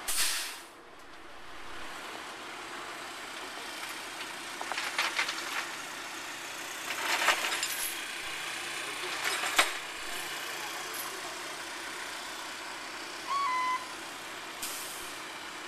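Heavy truck running, a steady rumble with short noisy surges every few seconds and a brief beep about two-thirds of the way through.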